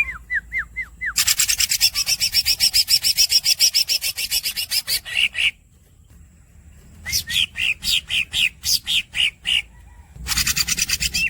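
Green leafbird (cucak ijo) singing: a few short down-slurred whistles, then long rapid rolls of harsh, rasping notes at about ten a second, mixed with squeaky chirps. The rolls break off twice, the first time for about a second and a half.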